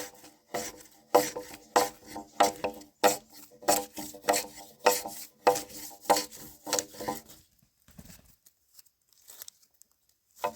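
A hand tool rasping back and forth on wood in regular strokes, a little under two a second, each with a short ring. The strokes stop about three-quarters of the way through and start again at the very end.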